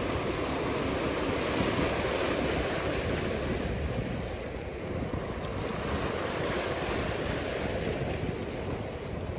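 Ocean surf washing steadily, with wind rushing across the microphone.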